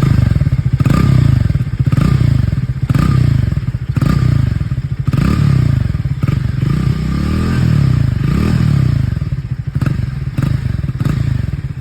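Triumph Speed T4's 398 cc single-cylinder engine being revved while standing, showing off its exhaust note: quick throttle blips about once a second, each rising and falling, with a longer rev a little past the middle, then settling back to a thumping idle near the end.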